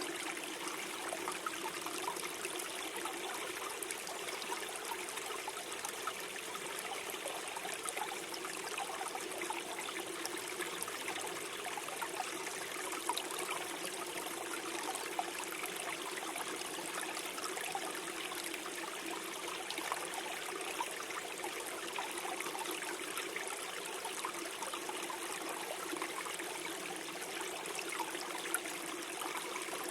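Shallow forest stream flowing and gurgling steadily over stones, with small splashes and trickles scattered through it.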